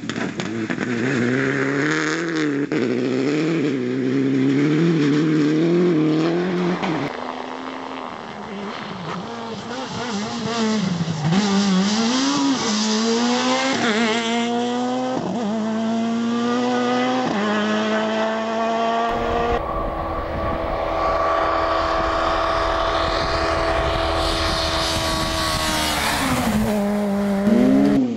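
Rally cars' engines at full throttle. A car climbs through the gears, its pitch rising and dropping back at each shift. About two-thirds in, the sound switches abruptly to another car held at high revs, whose note falls and then climbs again near the end.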